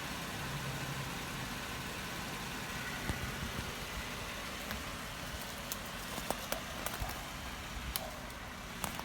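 A 4x4's engine running low and steady while it crawls an off-road trail, with scattered sharp knocks and clicks from about three seconds in.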